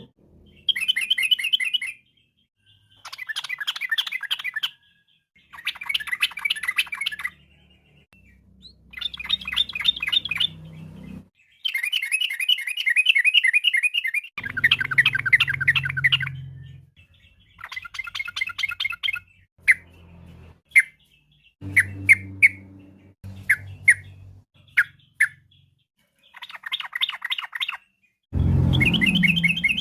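Yellow-vented bulbul (trucukan) singing: a series of bubbly, warbled phrases each lasting a second or two with short pauses between. Midway it changes to a run of short, separate notes before the longer phrases return near the end.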